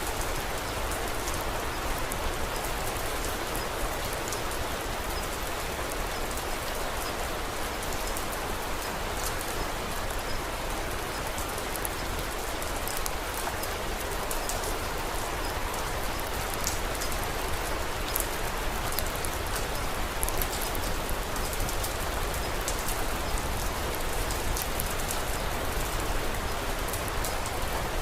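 Steady rain falling, with a low rumble beneath it and frequent small, sharp crackles from a wood fire scattered throughout.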